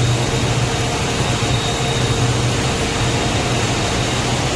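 Steady, loud rushing roar of Dudhsagar waterfall, a constant hiss with a low rumble beneath it.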